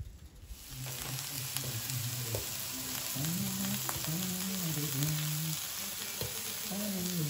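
Sliced aubergine, peppers and onion sizzling in oil on an electric griddle plate, a steady hiss that starts about a second in, with a few light clicks of a utensil turning the food. A low, slow melody sounds over the sizzling.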